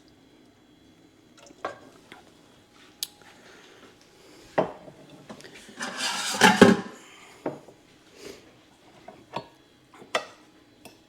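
Kitchen utensils clinking and knocking against a pot and plate while beans and their juice are dished onto cornbread: scattered single clinks, with a louder scraping rattle about six seconds in.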